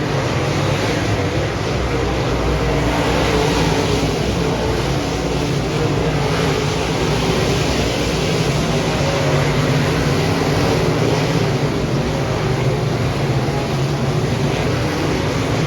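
Dirt modified race car engine running hard at racing speed, a loud steady drone with small swells in level.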